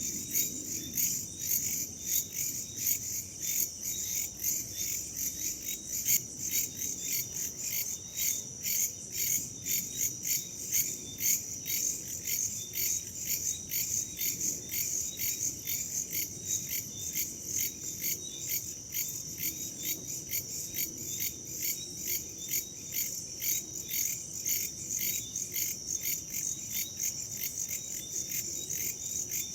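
Crickets and other insects chirping in a dense, rapid, even pulse, over a soft low rush of wind.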